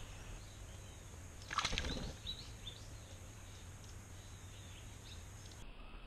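Small birds calling in a string of short, high chirps from about two seconds in, over a faint steady hum. Just before the chirps, about a second and a half in, a brief noisy burst under a second long is the loudest sound.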